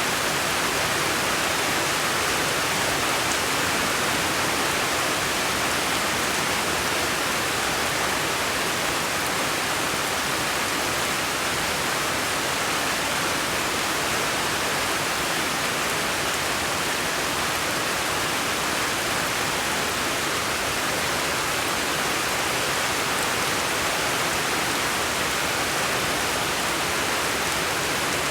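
A steady, even rushing noise, unchanging throughout, with no separate drops, splashes or other events.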